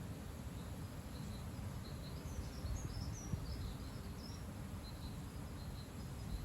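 Strong gusty wind buffeting the microphone in a steady low rumble, with small birds chirping in short, high calls through the middle.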